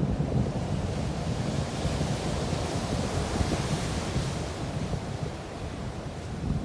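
Heavy surf after a typhoon: a breaking wave washes in with a hiss that swells about halfway through and then fades. Strong wind rumbles on the microphone.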